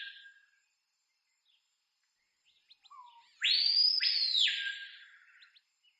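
A bird giving a loud, harsh, raspy call that starts abruptly about three and a half seconds in and fades over about two seconds, repeated from a previous call whose tail dies away at the start; a few faint short chirps come just before it.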